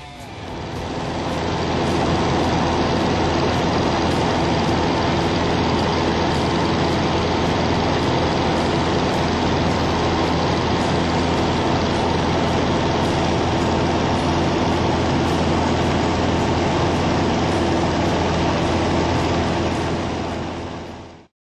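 Cessna 150's four-cylinder Continental O-200 engine and propeller running steadily, heard inside the cockpit with a constant drone and rush of noise. It rises in over the first couple of seconds and cuts off suddenly near the end.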